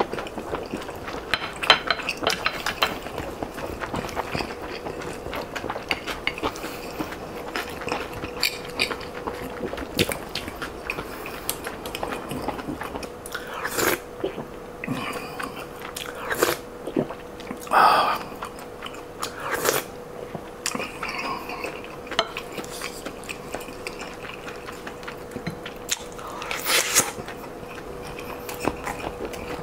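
Close-up eating sounds: chewing and biting of fried rice and stir-fried webfoot octopus, with a wooden spoon clicking against the plate. A few short, louder mouth sounds stand out, and a faint steady hum runs underneath.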